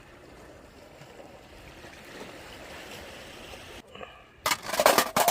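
Soft, steady wash of sea surf. Near the end it breaks off and a quick cluster of loud, crackling noise bursts follows.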